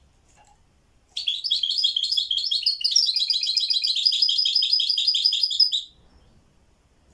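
A songbird singing one long rapid trill of quickly repeated high notes, starting about a second in and stopping abruptly after about four and a half seconds.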